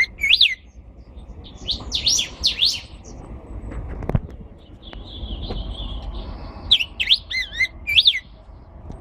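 Pet songbird singing short phrases of quick whistled notes that swoop up and down, three phrases a few seconds apart, with a thinner, steadier high note between the second and third. A single sharp knock about four seconds in.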